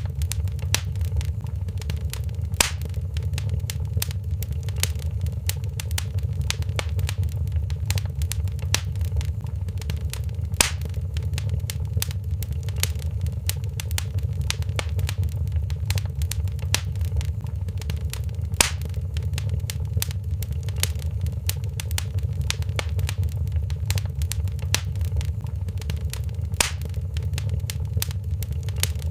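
Wood fire crackling in a fireplace: a dense run of small crackles over a steady low rumble of the burning fire, with a sharper pop about every eight seconds.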